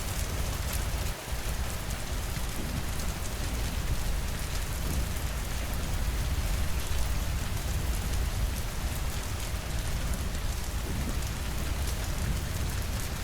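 Steady rainfall pattering against windows, with sharp drop ticks over a constant low rumble.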